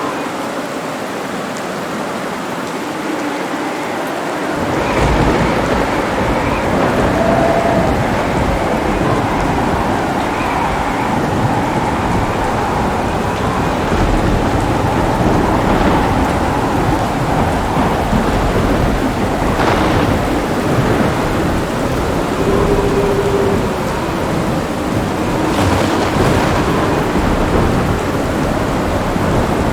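Steady heavy rain with thunder. A long low rumble of thunder rolls in about five seconds in and keeps going, with two sharper peaks of thunder later on.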